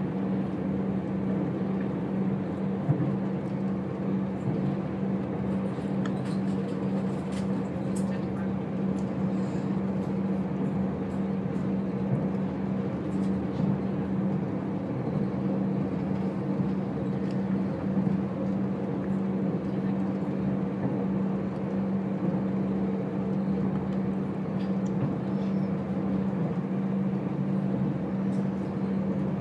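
Moving diesel passenger train heard from inside the carriage: a steady running drone with a constant low hum from the engine and wheels on the track, and a few faint clicks.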